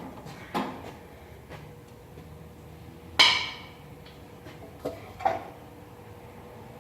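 Metal wrench work on an oil drain plug: a few sharp clinks, then one loud ringing clang about three seconds in and two more knocks a couple of seconds later.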